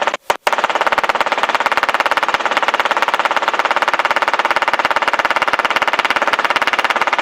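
Helicopter noise picked up through the cockpit headset microphone: a steady, very rapid pulsing that drops out twice near the start, as if the intercom's mic gate were closing and reopening.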